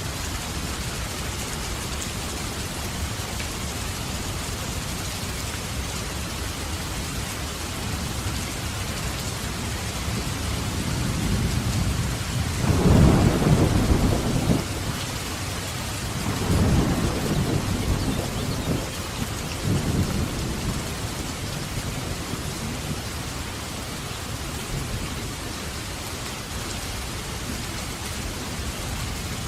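Steady heavy rain with a rolling thunderclap about halfway through: it builds, peaks for a couple of seconds, then rumbles on in two weaker rolls before fading back into the rain.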